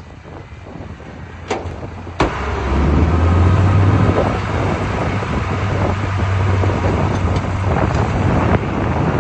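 Two sharp metallic knocks, then from about two seconds in a heavy diesel earthmoving machine running loud and steady under load with a deep rumble.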